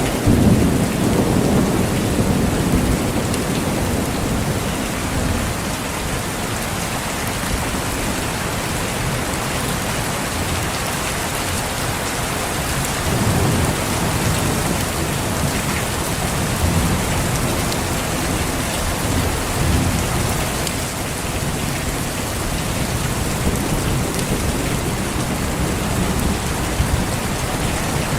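Steady rain falling, with low rumbles of thunder, the strongest right at the start and another about halfway.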